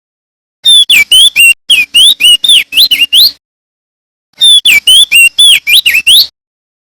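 Male crested white-eye (opior jambul) singing: two bursts of rapid, clear, loud whistled notes that slide up and down, the second beginning a second after the first ends.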